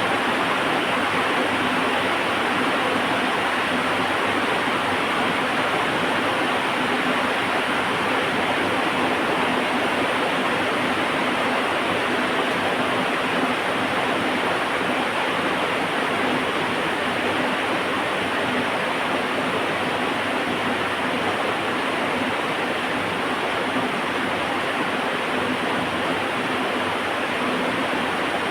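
Heavy rain falling steadily, an even hiss with no breaks, crackles or thunder.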